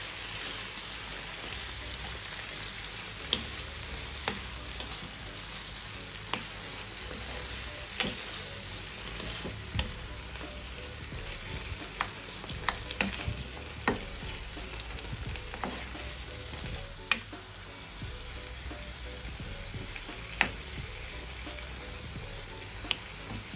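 Minced beef with chopped peppers, onion and cherry tomatoes sizzling as it browns in a frying pan, stirred with a wooden spatula that scrapes and knocks against the pan every second or two.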